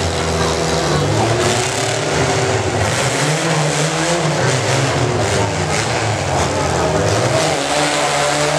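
Compact pickup truck engine running hard at high revs, its pitch rising and falling several times.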